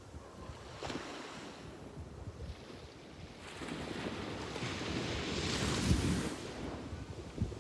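Sea waves breaking and washing up on a beach: a small wash about a second in, then a bigger wave that swells from about halfway, peaks near the end and draws back.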